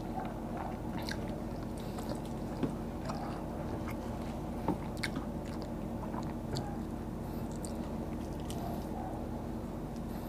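Close-up chewing and mouth sounds, with scattered small crackling clicks as crisp fried tilapia is torn apart by hand, over a steady low hum.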